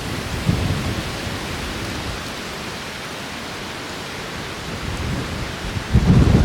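Strong wind gusting and buffeting the microphone with a low rumble; it eases in the middle, then surges again about six seconds in.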